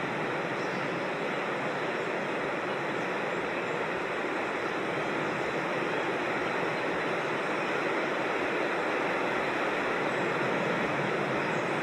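Steady rush of a creek's flowing water, even and unbroken, growing slightly louder in the second half.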